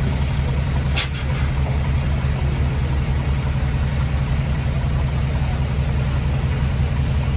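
Diesel engine of a Komatsu D20P bulldozer running steadily, with a single sharp clank about a second in.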